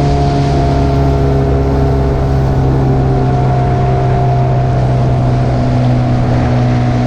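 Small Yamaha outboard motor on a dinghy running steadily at speed, its pitch sinking slightly, with wind and water noise over it.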